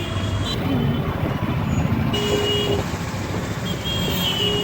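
Street traffic noise with a steady rumble of vehicles, and a vehicle horn sounding twice: a short toot about two seconds in and a longer one near the end.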